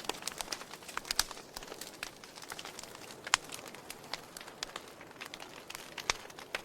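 Wood fire burning in a fireplace: a steady hiss with irregular sharp crackles and pops from the logs, the loudest pop about three seconds in.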